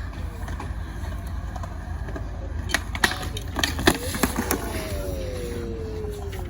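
BMX bike rolling on skatepark concrete with a steady low rumble, and several sharp knocks and clacks of the bike hitting the ramp a little before the middle. Near the end a tone slides slowly down in pitch.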